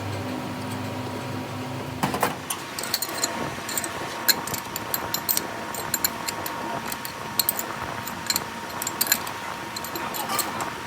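A steady motor hum stops about two seconds in. Irregular sharp metallic clicks and taps follow, as tools and hub parts are handled.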